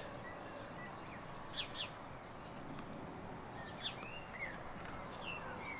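Faint outdoor ambience with small birds calling now and then: short high chirps and a few brief sliding notes, over a steady low background hiss.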